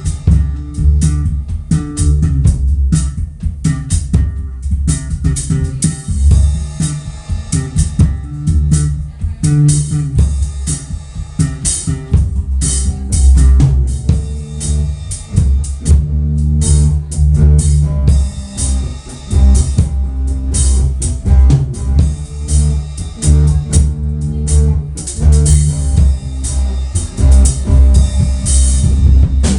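Instrumental music from a small band: a drum kit with regular kick and cymbal hits, a bass guitar and a guitar playing together without singing.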